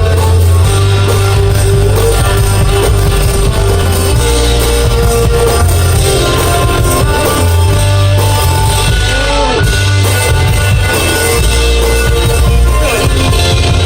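One-man band playing rock music: electric guitar over deep bass notes, with drum beats played live on foot pedals. A few guitar notes are bent in pitch.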